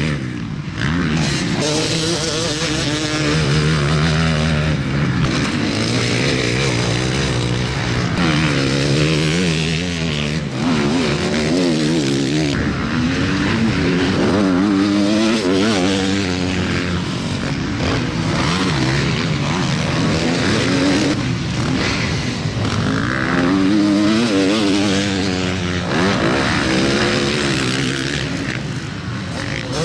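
Motocross motorcycles racing, several engines at once, revving up and falling back again and again as the riders work the throttle and shift.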